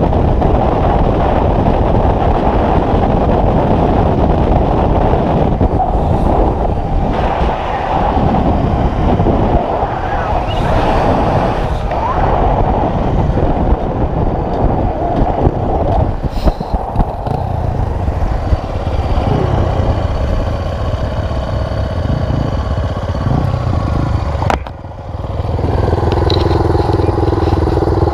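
Four-stroke single-cylinder enduro motorcycle engine running while riding, with a dense rush of noise over the engine note. Near the end the sound drops out briefly, then settles into a steady hum.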